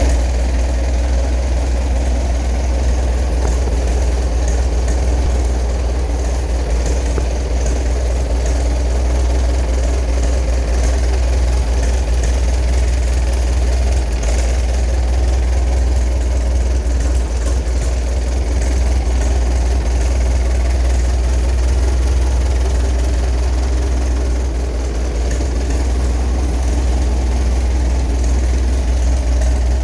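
Engine of a 1926 Huber tractor idling steadily, a deep, even engine sound with no change in speed.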